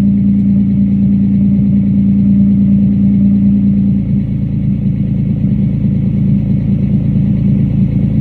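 2003 Mitsubishi Eclipse GTS's 3.0-litre V6 idling steadily after a cold start. About four seconds in its steady hum drops away and the idle turns slightly rougher and quieter.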